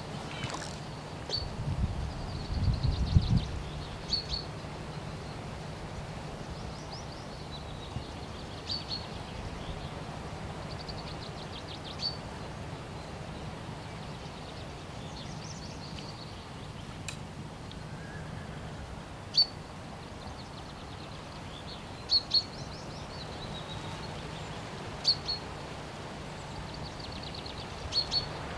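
Small songbirds chirping and trilling on and off, with a few sharp clicks, over a faint steady low hum.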